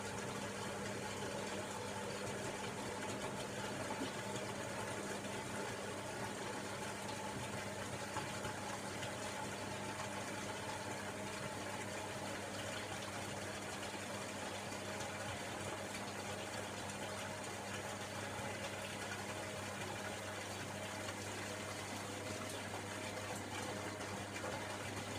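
Hoover Logic washing machine mid-cycle on a cotton 60 wash: water rushing and swirling through the machine over a steady electrical hum, the hum getting stronger near the end.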